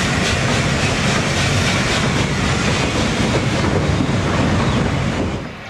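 Passenger coaches of a steam-hauled train rolling past over a lattice-girder bridge, the wheels making a steady rumble on the rails with faint clicks, until the sound cuts off near the end.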